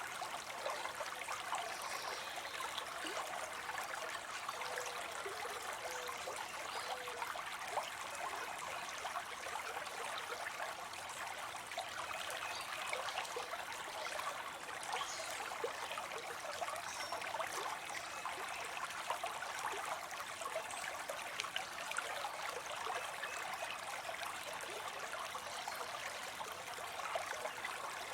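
Small waterfall of water spilling into a pond, a steady splashing and trickling.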